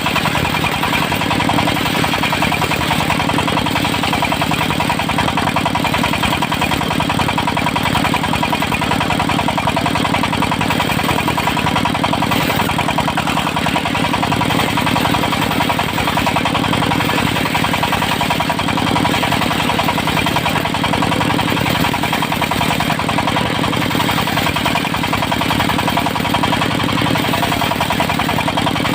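Engine of a portable circular-saw sawmill running steadily at a constant speed, with an even, unbroken drone.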